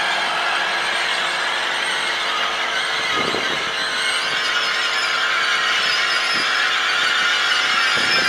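Passenger train's steel wheels squealing as it moves through the station: a steady, loud, high-pitched metallic squeal made of several tones at once, with a couple of dull thuds about three seconds in and near the end.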